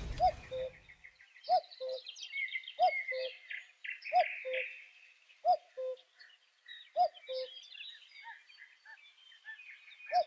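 Birds calling: a low two-note call, the second note lower than the first, repeated roughly every second and a half, over the higher chirping of smaller birds.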